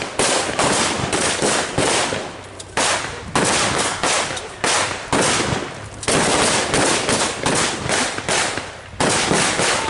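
Blank-fire gunfire in a mock battle: shot after shot, about two or three a second, with a short lull about two and a half seconds in.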